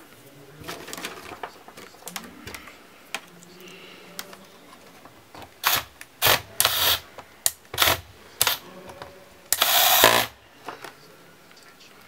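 Hands working on a laptop: faint handling noise, then a run of sharp plastic and metal clicks and knocks, and a longer scrape about ten seconds in.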